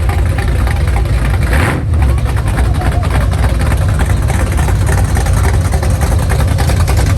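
Car engine running at low revs as it rolls slowly past, a steady low exhaust rumble, with a brief rush of noise about a second and a half in.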